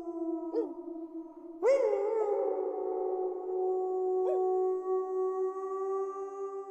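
Several wolves howling together, long held notes overlapping at different pitches. A new, louder howl breaks in with a quick rise about a second and a half in, and others join with short rising starts before sliding slowly down.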